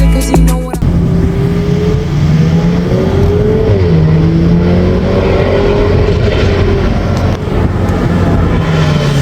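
Volkswagen Golf 8 R's turbocharged 2.0-litre four-cylinder engine and exhaust pulling hard, the note rising, dipping briefly about four seconds in, then climbing again.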